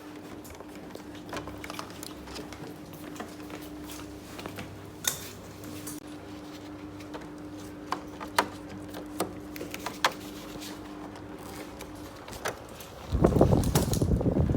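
A steady motor hum with scattered clicks and knocks, then a loud burst of noise about a second before the end.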